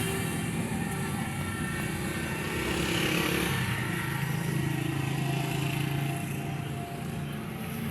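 Massey Ferguson 135 tractor engine running steadily.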